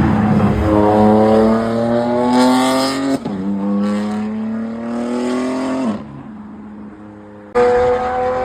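A car engine under hard acceleration, its pitch climbing, with a quick upshift about three seconds in and a second climb before the throttle is lifted. Near the end another engine comes in suddenly loud, holding a steady note.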